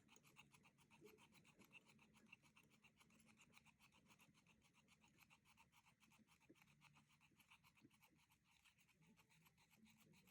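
Faint, rapid scratching of a fiberglass scratch pen rubbed back and forth on the commutator of a model locomotive's small electric motor, cleaning it, at about eight strokes a second.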